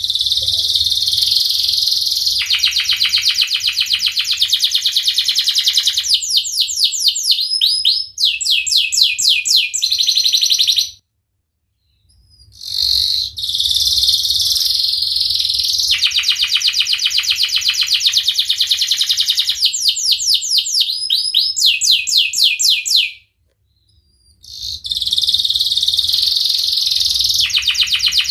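Domestic canary singing long, continuous song phrases made of fast rolling trills and rapidly repeated high notes. It comes in three bouts, broken by two short pauses.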